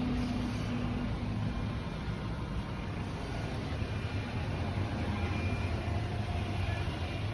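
Outdoor air-conditioning condensing units running: a steady low hum with a light rushing haze over it.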